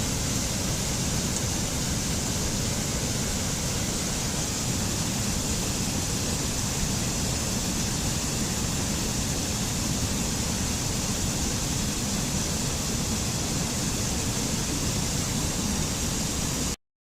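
Steady, unchanging rushing noise with no distinct events, switching on abruptly and cutting off abruptly near the end.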